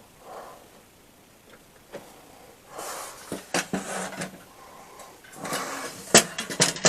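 A workshop part being handled and fitted into place: intermittent scraping and rubbing, then a few sharp knocks near the end.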